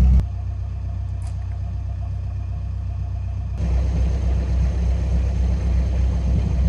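Engines of municipal cleaning vehicles running steadily with a low rumble. The sound changes abruptly about a quarter second in, gets louder from about three and a half seconds in, and cuts off sharply at the end.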